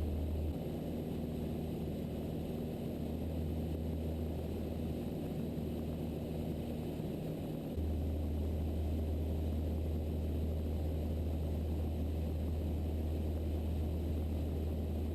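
Mooney M20E's four-cylinder Lycoming engine and propeller droning steadily in flight, heard inside the cabin. The deep part of the drone drops a little about half a second in and returns fully just before eight seconds.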